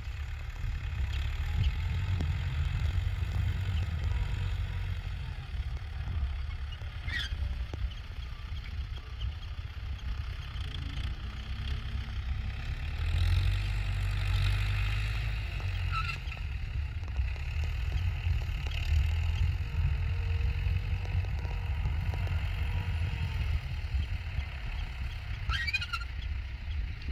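Belarus tractor's diesel engine running steadily, with a few brief high chirps over it.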